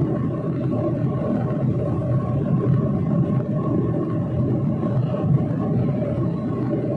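Airplane engines running at steady power: a loud, even rumble with a steady hum above it.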